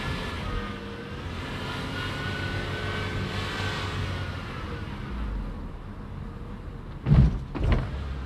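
Car engine running at low speed, its pitch drifting gently up and down, with two loud thumps close together about seven seconds in.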